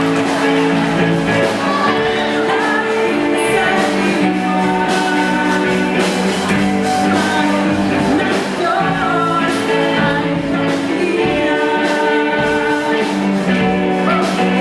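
Live rock music with singing over it: held chords and a sung melody, with drum hits keeping the beat.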